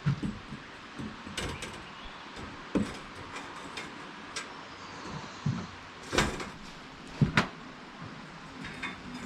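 Irregular knocks and clanks from handling parts of a bandsaw sawmill's blade and wheel assembly during a blade change, about ten sharp hits with the loudest near the middle and a quick double knock a little after.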